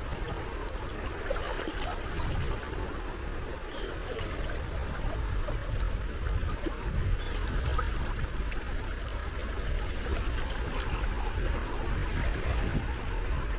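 Small sea waves lapping and trickling at the water's edge, a steady wash of water with a low rumble beneath.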